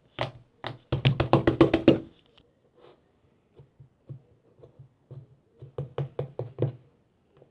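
Quick runs of small clicking knocks from hands pressing and poking clay slime, with a burst in the first two seconds and another near the end, and scattered single clicks between.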